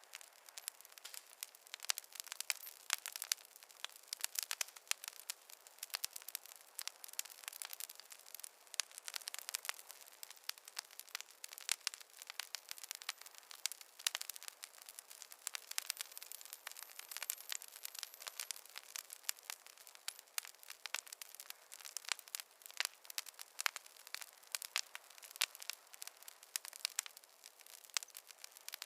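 Campfire crackling: a steady run of irregular sharp snaps and pops, several a second, with no low rumble.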